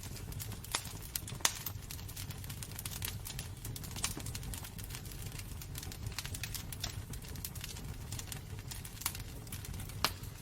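Wood fire burning in a fireplace: irregular crackles and pops over a steady low rumble, with a couple of sharper pops, one about one and a half seconds in and one near the end.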